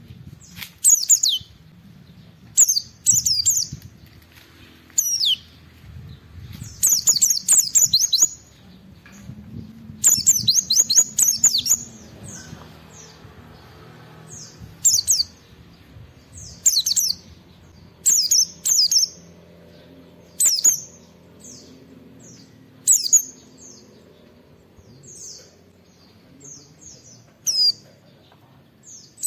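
White-eye (pleci) singing in full, challenging song: a string of rapid, high twittering phrases, each about a second long, with short pauses between them.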